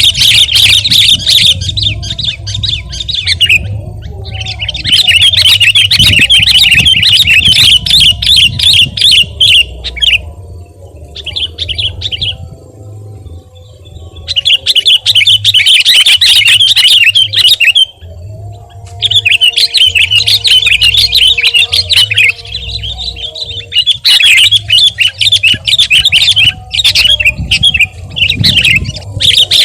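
Sooty-headed bulbul (kutilang) singing energetically. It gives long, rapid, chattering phrases of a few seconds each, broken by short pauses.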